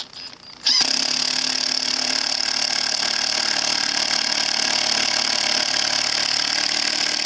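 Hitachi 18-volt half-inch cordless impact wrench driving a self-drilling Tek screw, its motor and hammer mechanism running hard in one steady unbroken stretch that starts about a second in.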